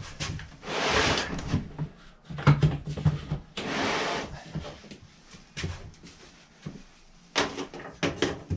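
Molding gear being handled: scattered knocks and clunks, with two short scraping or rustling noises about a second in and about four seconds in, and a quick run of sharp knocks near the end.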